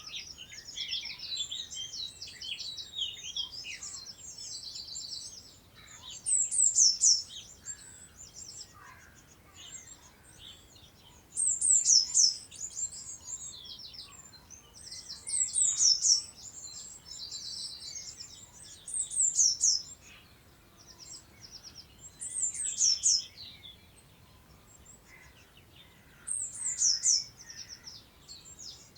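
Songbirds singing: one bird repeats a short, high phrase of quick falling notes six times, roughly every four seconds, over softer continuous twittering from other birds.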